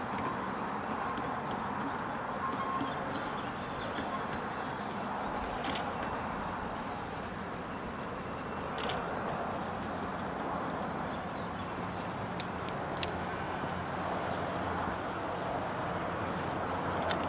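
Distant narrow-gauge train running steadily, a low even rumble, with a few sharp clicks and faint birdsong.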